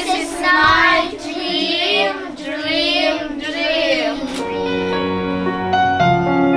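A child singing a song with musical accompaniment; the singing ends about four seconds in and piano music carries on alone.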